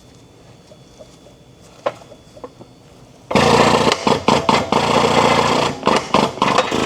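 A few faint clicks, then a powered shop tool starts suddenly a little past halfway and runs loud with short stutters, as the worn front wheel bearing is pressed out of the knuckle.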